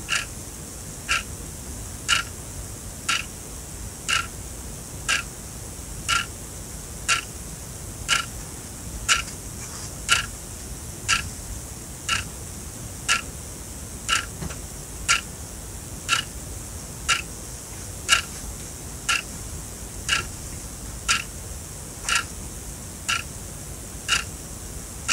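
Sonam quartz analog alarm clock ticking steadily, one sharp tick each second as the quartz movement steps the second hand.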